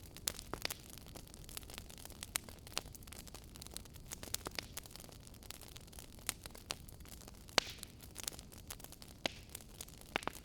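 Wood fire in a fireplace crackling: irregular sharp pops and snaps over a soft low hiss, with one louder pop about seven and a half seconds in.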